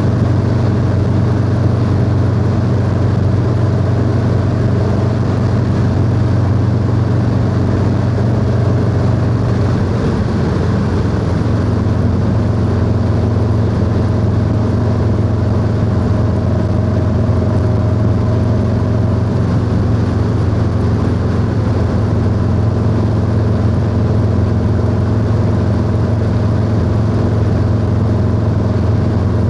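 Harley-Davidson Low Rider S V-twin engine through a 2-into-1 exhaust, running steadily while the bike cruises. About a third of the way through the engine note dips and shifts, then settles into a steady pitch again.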